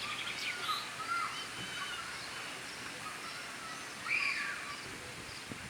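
Birds chirping now and then over a steady outdoor background hiss, with the loudest call about four seconds in.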